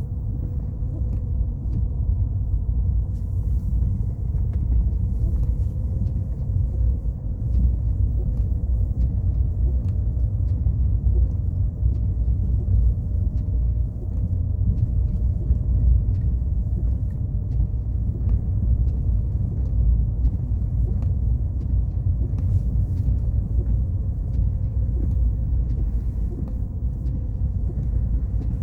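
Car driving steadily along a road: a continuous low rumble of engine and tyres with a faint steady hum.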